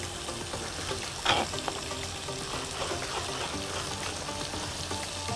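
Minced meat and tomato wedges sizzling steadily in oil in a frying pan.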